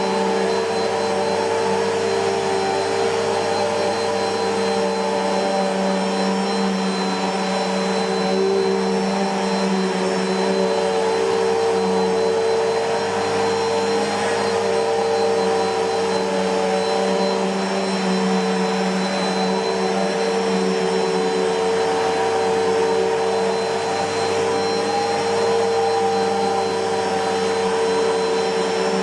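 Bissell PowerForce Helix Turbo (2190) bagless upright vacuum cleaner running steadily, its motor giving a constant whine over the rush of airflow, with slight changes in pitch as it is worked.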